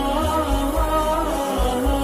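Islamic background vocal music: a wordless chant whose pitch slides and bends, over a low pulsing bass.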